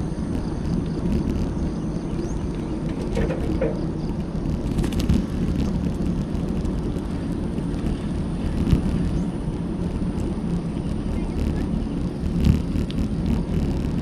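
Wind buffeting an action camera's microphone while riding a bicycle, a steady low rumble mixed with tyre noise from the road. A few small knocks come through, from the bike rattling on bumps.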